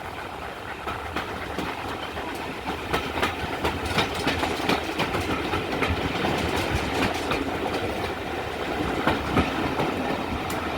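Train rolling along the rails with a steady rumble, its wheels clicking over rail joints many times.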